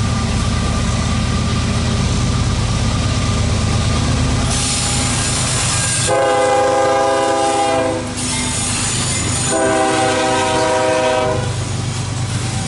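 A CSX freight locomotive's air horn sounds two long blasts, the second after a short gap, over the low steady rumble of the passing train. Each blast is preceded by a brief hiss.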